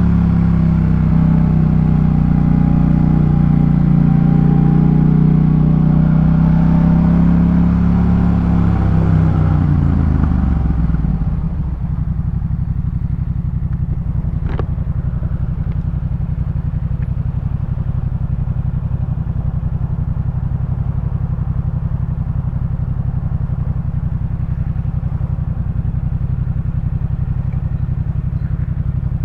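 Yamaha MT-07's parallel-twin engine through a Jeskap K4 full exhaust, running steadily at cruising revs, then dropping in pitch as the bike slows. It settles into a steady, pulsing idle from about twelve seconds in. A single sharp click sounds shortly after.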